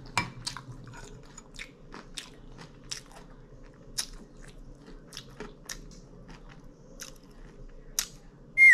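Close-up eating sounds: chewing with irregular crisp mouth clicks and crunches, two or three a second. Near the end a loud tone falls steeply in pitch.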